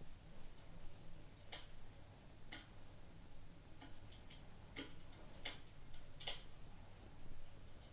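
Wood fire crackling, with sharp pops at irregular intervals about once or twice a second.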